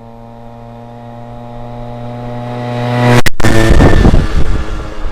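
Vespa 50 Special scooter with a 75 cc DR two-stroke single-cylinder kit and a Polini expansion exhaust, held at a steady engine speed and coming closer, growing steadily louder. About three seconds in, after a very brief break in the sound, it goes past close by, loud and raspy, then starts to fade.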